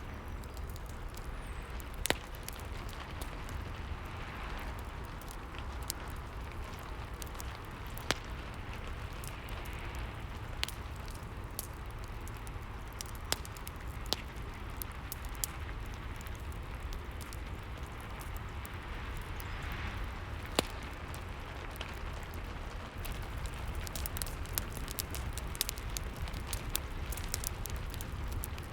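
Fireplace crackling with scattered sharp pops, a few of them louder, over a steady hiss of rain and a low rumble.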